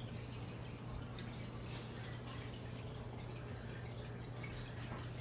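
Water trickling and dripping steadily, as from an aquarium filter's return into the tank, over a constant low hum.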